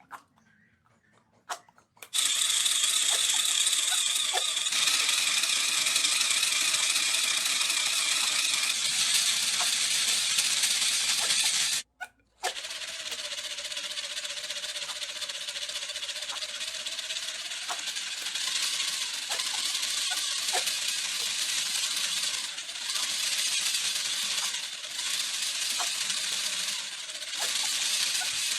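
A power tool runs with a loud, dense rattling buzz. It stops for a moment about twelve seconds in, then starts again somewhat quieter, with a few brief dips.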